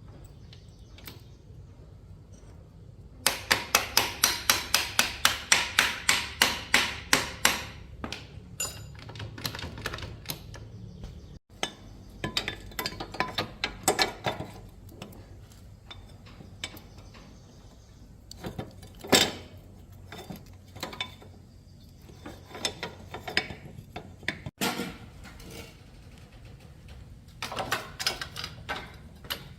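Hammer blows on metal motorcycle parts: a quick even run of about four strikes a second for several seconds, then scattered knocks and clinks of metal tools and parts.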